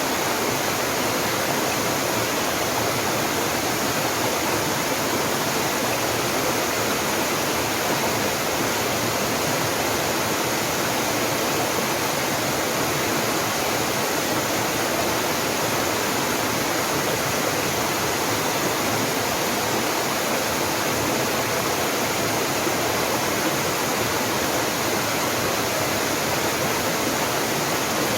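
Mountain waterfall: water falling and splashing in a steady, even rush with no change.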